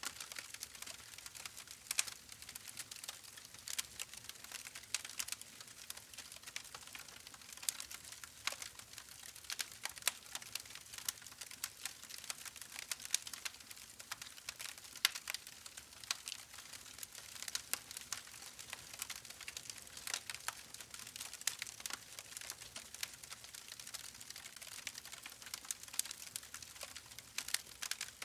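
Wood fire in a fireplace crackling: a steady hiss with many sharp, irregular pops and snaps.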